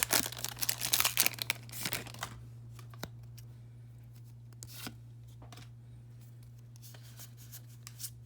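Foil booster-pack wrapper being torn open and crinkled for about two seconds, then a few light clicks and rustles of cards being handled.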